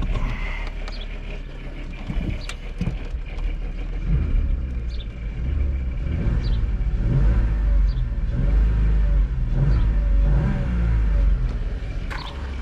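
A Volkswagen VR6 engine in a 2002 EuroVan running, getting louder from about four seconds in, with its pitch rising and falling several times before easing off near the end.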